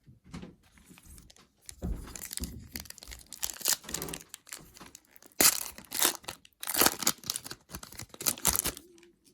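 Foil wrapper of a trading-card pack crinkling and tearing by hand, in a string of irregular sharp rustles from about two seconds in, loudest in the middle.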